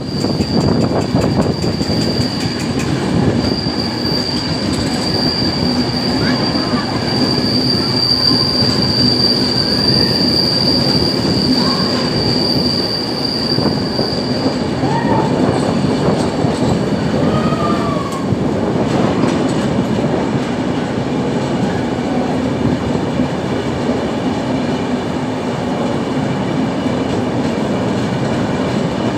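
Indian Railways train running on the rails with a steady rumble and clatter. A high, steady wheel squeal sounds over it for the first half and stops about halfway through.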